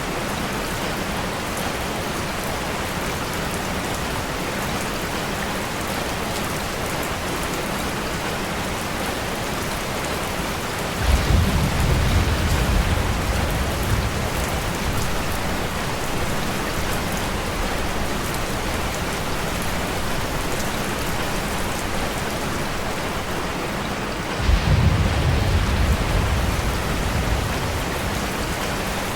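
Steady rain falling, with two rolls of thunder, one about a third of the way in and one near the end, each starting suddenly and rumbling away over a few seconds.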